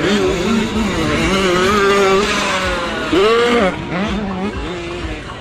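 Motocross dirt bike engines revving, several at once, their pitch rising and falling as the riders work the throttle. About three seconds in, one bike revs up sharply and drops back.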